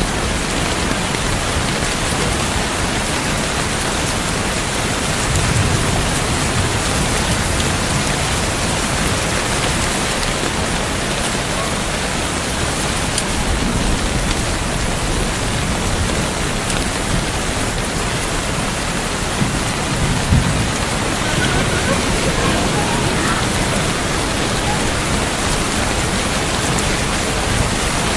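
Steady heavy rain falling, with a few low rumbles of thunder.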